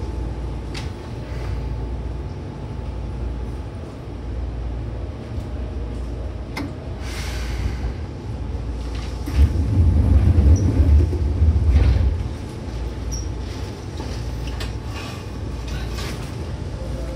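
Seibu 2000 series electric train running: a steady low rumble of wheels and running gear, with a few sharp clicks. The rumble grows louder for about two and a half seconds in the middle.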